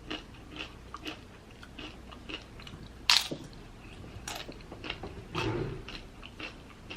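A person chewing and biting food, with irregular short crunches; the loudest crunch comes about three seconds in.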